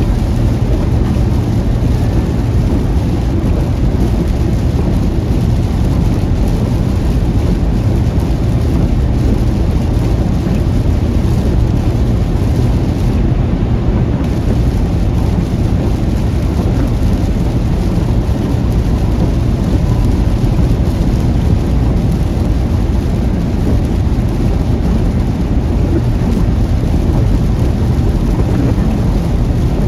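Steady low rumble of a car driving through a heavy rainstorm, with rain falling on the car.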